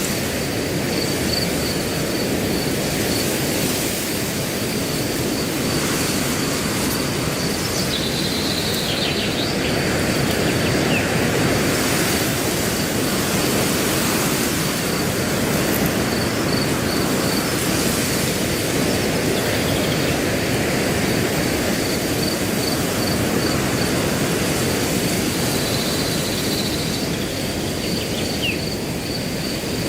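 Steady wind rushing through grass, with a cricket's fast pulsing trill running above it. A couple of brief bird chirps come about eight seconds in and again near the end.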